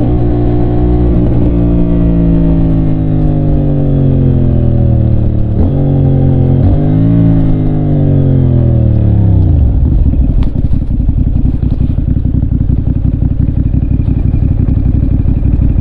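CFMOTO 450SR's 450cc twin engine winding down in pitch as the motorcycle slows, with two brief revs partway through, then settling about ten seconds in to a steady idle.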